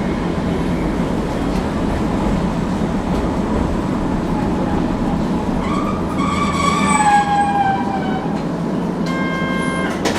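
Hankai tram running along the track, a steady rumble, with a high metallic wheel squeal that rises up about six seconds in and slides slightly down before fading two seconds later. A short steady ringing tone sounds near the end, followed by a click.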